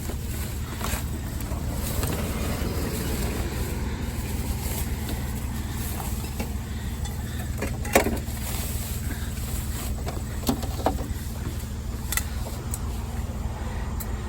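Motor vehicle running with a steady low rumble, with a few sharp knocks and clanks, the loudest about eight seconds in.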